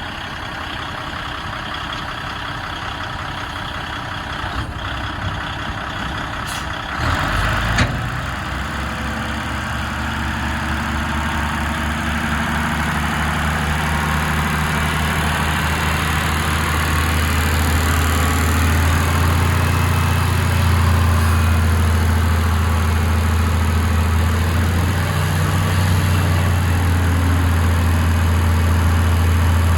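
Diesel engine of a 2012 Kenworth T800 quad-axle dump truck running. About seven seconds in there is a short knock, after which a deep, steady engine drone comes in and grows gradually louder.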